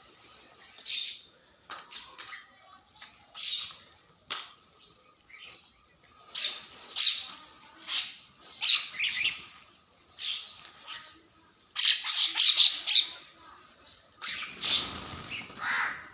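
Birds calling: a string of short, high calls every second or so, with a louder burst of calls about twelve seconds in.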